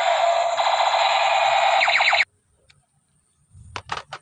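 Battery-powered toy light gun playing its loud electronic warbling sound effect, which cuts off suddenly about halfway through. A few plastic clicks follow near the end.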